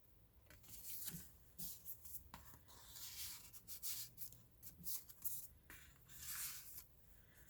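Faint rustling and sliding of paper and card, with small taps, as note cards are slipped into the paper pockets of a handmade book.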